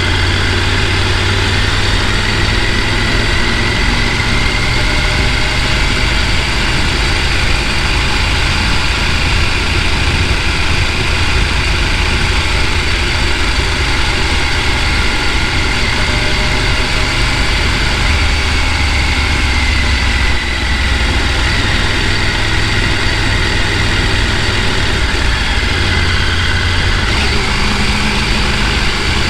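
Vehicle engine running steadily, a continuous low drone with road or running noise over it.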